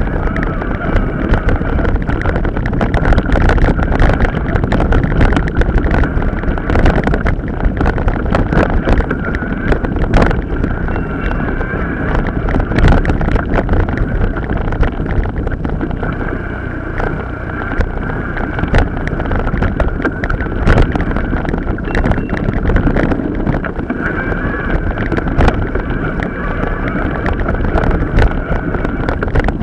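Mountain bike riding off-road: wind buffets the microphone and the bike rattles and knocks over rough ground, with irregular clicks throughout.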